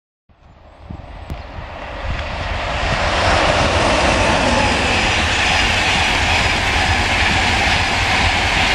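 Electric train passing at speed on the main line, its rushing noise and low rumble building over the first few seconds, then holding steady and loud.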